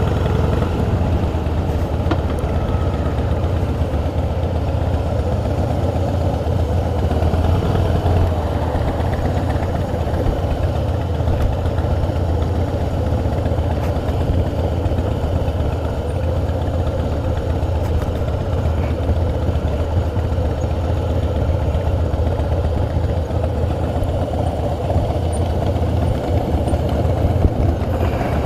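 Harley-Davidson V-twin motorcycle engine running steadily at low revs, with no revving up or down.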